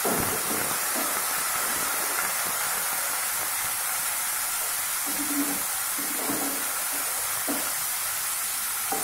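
Grated onion frying in hot mustard oil on low heat in a non-stick wok: a steady sizzle while a wooden spatula stirs it.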